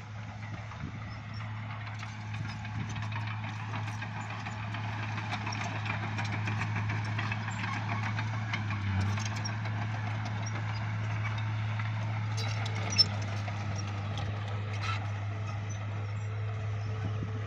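Bulldozer's diesel engine running steadily with a low hum, with scattered clanks and one sharp knock about two-thirds of the way through.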